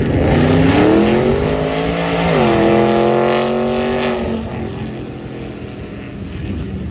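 A car engine accelerating hard. Its pitch climbs for about two seconds, drops sharply at an upshift, then holds and fades as the car moves away.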